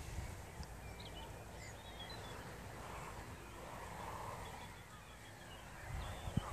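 Faint, scattered short calls of distant birds over a steady outdoor background hiss, with a few low bumps and a sharp click near the end.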